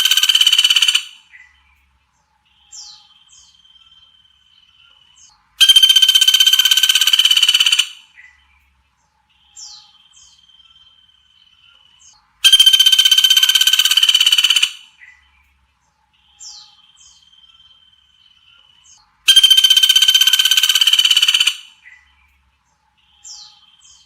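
A looped songbird-training (masteran) recording: a loud, harsh, buzzing call about two seconds long repeats four times, about every seven seconds. Between repeats come fainter high, downward chirps and a thin steady whistle.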